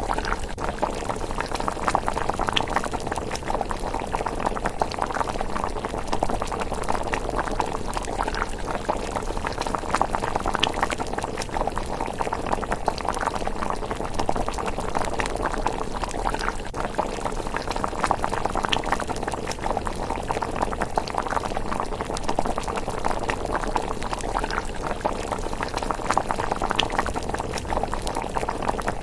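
Thick rice porridge simmering in a pot, bubbling and blipping steadily, with a few sharper pops scattered through.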